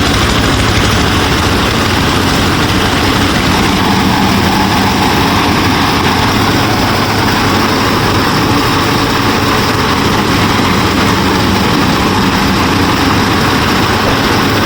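DIY mini combine harvester running steadily, an even engine-like mechanical drone with a low hum.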